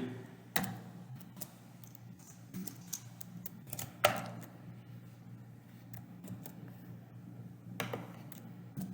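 Typing on a computer keyboard: irregular key clicks, with a few louder taps about half a second in, at about four seconds and near eight seconds. A steady low electrical hum runs underneath.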